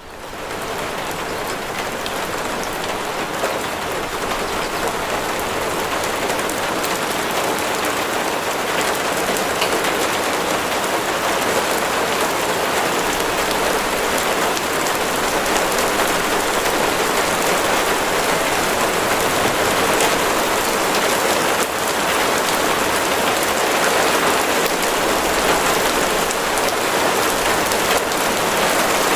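Heavy rain falling steadily, a dense even hiss of drops on surfaces. It swells up within the first second and then holds, growing slightly louder.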